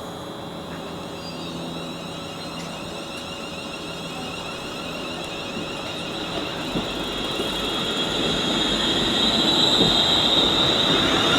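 Class 350 electric multiple unit departing, its traction whine and running noise growing steadily louder.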